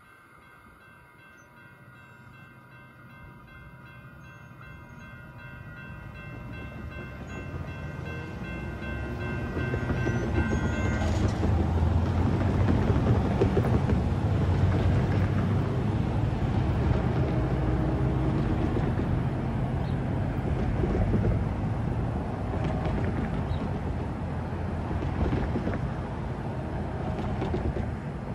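An approaching train rumbles, growing steadily louder over the first dozen seconds and then holding loud. Faint, thin, steady high tones sound over roughly the first ten seconds.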